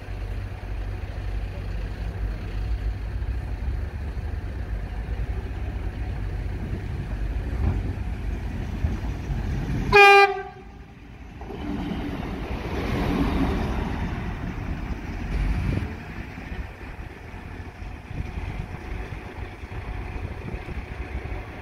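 Track inspection railcar sounding one short horn blast as it comes close, about ten seconds in. Its rumble then rises as it passes and fades as it runs away down the line.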